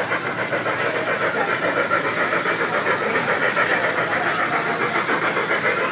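G gauge model train running on the garden railroad track, a steady mechanical running noise with a quick, even pulse of several beats a second.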